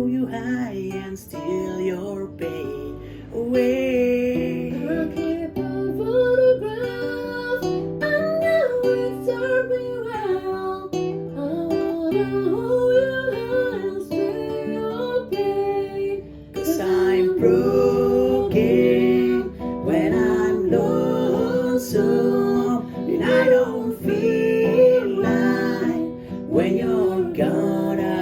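Acoustic guitar strummed and picked with a voice singing over it.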